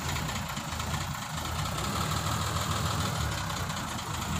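Small truck's engine running steadily at idle.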